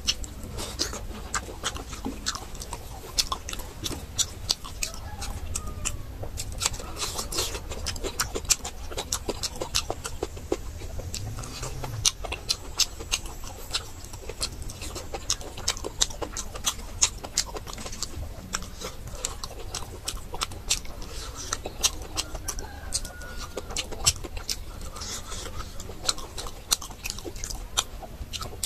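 Close-miked eating sounds of boiled meat on the bone being chewed: wet chewing and lip smacking, a dense run of small clicks and smacks.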